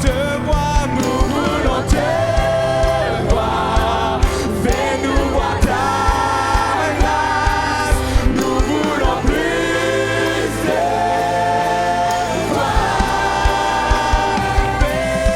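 Live gospel worship song: a group of singers holding long sung lines over a band with a steady beat.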